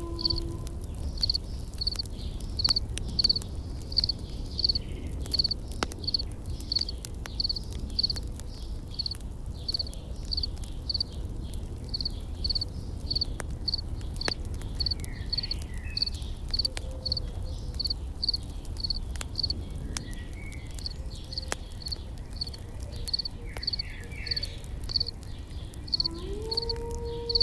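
An insect, cricket-like, chirping in a steady rhythm of short high pulses, a little under two a second, over the crackle of a campfire with scattered small pops and a low steady rumble. A few faint bird chirps come in the second half, and a soft held low tone rises in near the end.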